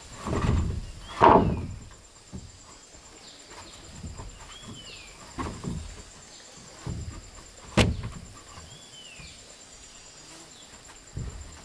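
Irregular knocks and thumps from handling wood, the loudest about a second in and a sharp crack near eight seconds. A bird repeats a short falling call every few seconds over a steady high insect trill.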